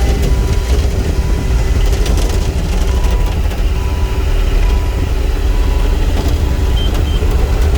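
Bobcat E35 mini excavator's diesel engine running steadily, with a faint beep repeating about once a second.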